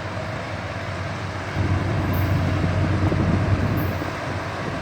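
Freight train with diesel-electric locomotives passing, a low rumble that swells about one and a half seconds in and eases off near the end.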